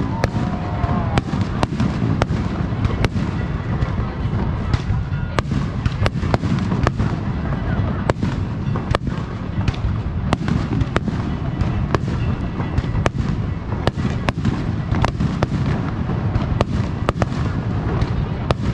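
Aerial fireworks going off in quick succession: a dense run of sharp bangs and crackles, several a second, over a continuous deep rumble of bursts and their echoes.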